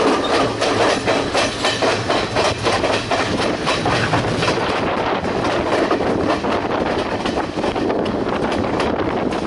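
Passenger train running along the track, its wheels clattering over the rails in a steady clickety-clack.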